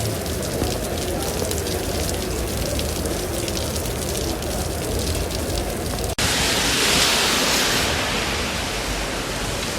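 Heavy rain, a steady rushing hiss. About six seconds in it cuts abruptly to a brighter, hissier stretch of rain.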